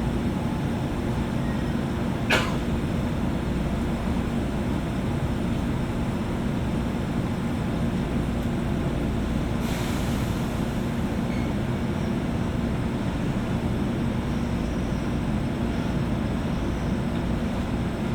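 Inside a JR West 201-series electric commuter car standing at a station: a steady low hum of the car's running equipment and ventilation. A sharp click comes about two seconds in, and a short hiss of air about ten seconds in.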